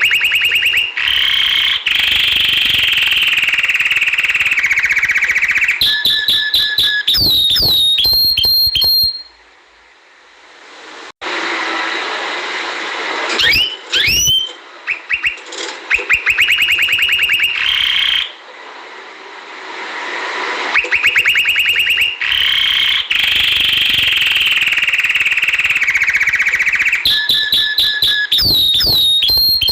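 Domestic canary singing: long, very fast rolling trills, each held for several seconds, broken by quick rising whistled slides and short high notes. The song pauses briefly about ten seconds in.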